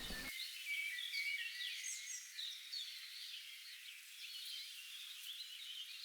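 Birds chirping, many short high calls overlapping one another.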